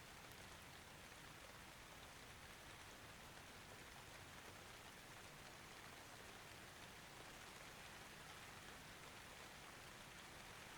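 Faint, steady rain: an even hiss of rainfall with no thunder.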